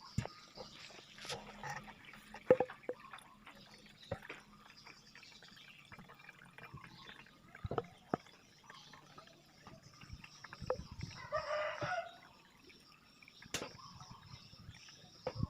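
A rooster crows once, about eleven seconds in, over scattered sharp clicks and knocks; the loudest knock comes about two and a half seconds in.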